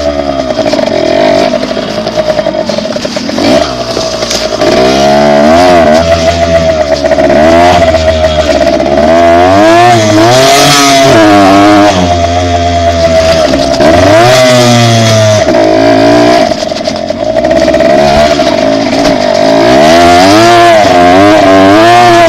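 Dirt bike engine running while riding, its pitch climbing and dropping again and again as the throttle is opened and closed through the gears, with a steady whine underneath.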